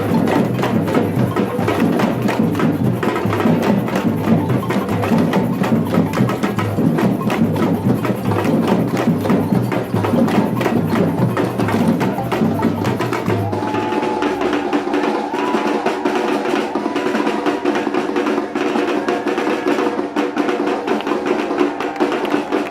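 Batucada drum ensemble playing a loud samba rhythm with dense, rapid hits. About two-thirds of the way through, the deep drums drop out, leaving lighter percussion under held pitched tones.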